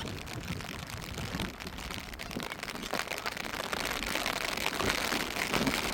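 Heavy rain falling, a steady hiss of many close drop hits that grows louder about halfway through.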